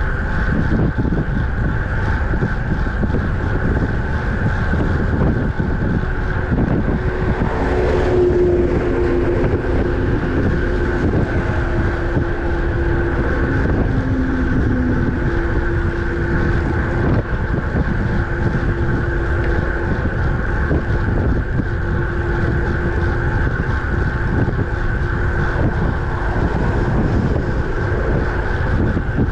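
Wind buffeting the microphone of a road bike moving at speed, with road noise underneath. A steady low hum joins in about five seconds in, and there is a brief louder swell about eight seconds in.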